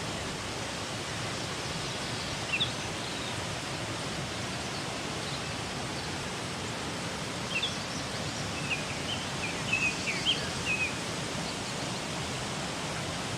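Steady rush of a creek waterfall. Short, high bird chirps come about two seconds in, and a scattering more follow in the latter half.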